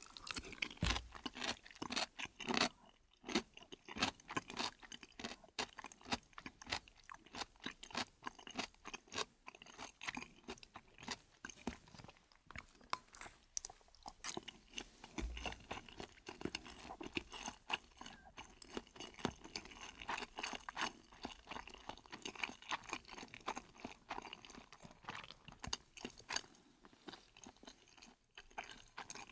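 A person chewing a mouthful of noodles and fried chicken: a steady run of many short clicks and smacks.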